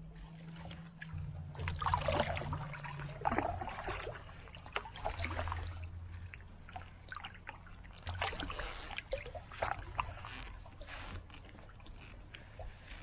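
Paddle strokes dipping and splashing in calm creek water, a stroke every second or two, over a low steady rumble.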